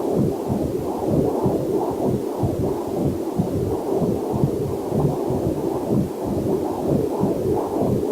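Heartbeat and blood flow picked up by a fetal Doppler heart monitor: a steady run of rhythmic, muffled whooshing pulses.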